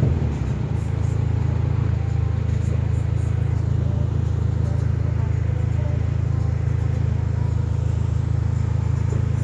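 Dodge SRT-4's turbocharged 2.4-litre four-cylinder, heard from inside the cabin, dropping off just after the start and settling into a steady idle with the car stopped.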